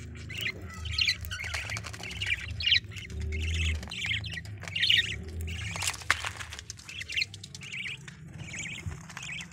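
A pet bird gives short squawking calls over and over, about two a second, with brief gaps, over a steady low hum and a few scattered clicks.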